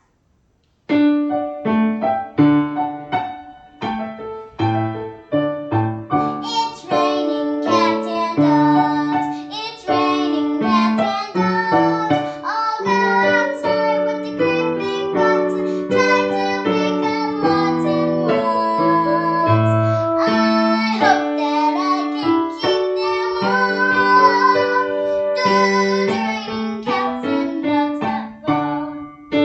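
A song with piano accompaniment: a short piano introduction, then a young girl's voice sings the melody over the piano from about six seconds in.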